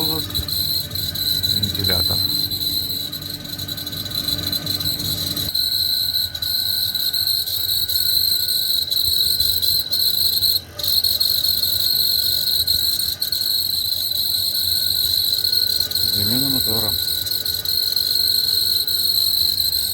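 Steady high-pitched whistle from a Mariya Kholodmash (MHM) refrigeration monoblock running, the fault noise traced to its fan motor. A lower hum underneath stops about five and a half seconds in.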